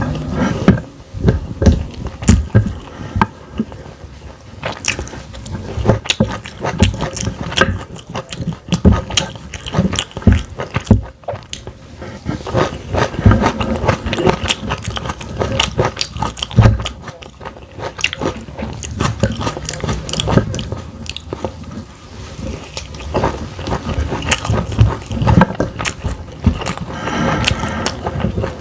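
Close-miked eating: repeated biting and chewing of food, with irregular wet clicks and crunches.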